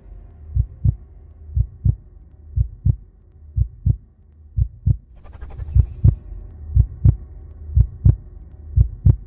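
Heartbeat sound effect: pairs of low thumps in a lub-dub pattern, about one beat a second. A high steady electronic tone sounds for about a second a little past the middle.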